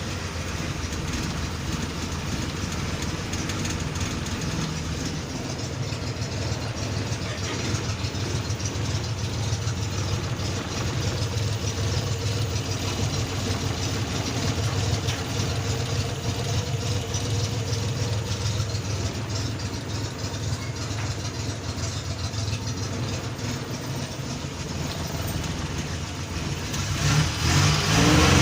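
Mitsubishi Jetstar pickup engine idling steadily, its valves freshly adjusted to make it run smoothly, then starting to rev up near the end.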